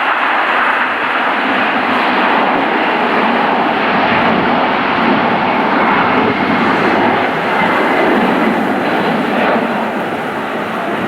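An airliner's engines running loud and steady, a dense rushing noise.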